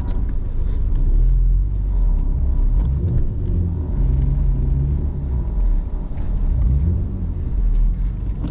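BMW E39 heard from inside the cabin, its engine and tyres giving a steady low rumble as it creeps into a parking space on snow. The engine note rises and falls a little.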